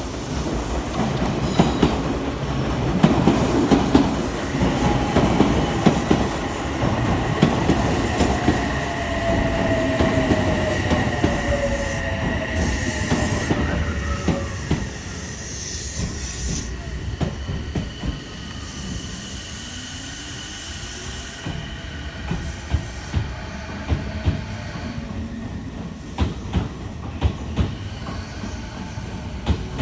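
Odakyu 4000 series electric train pulling out, its wheels squealing and motors whining over dense rumble. It fades in the second half, where a regular clack of wheels over rail joints takes over.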